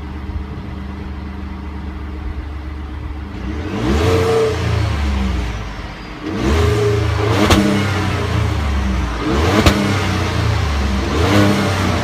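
A 2015 Ford F-150's 3.5-litre V6 EcoBoost engine idling steadily, then revved several times from about four seconds in, each rev rising in pitch and falling back to idle.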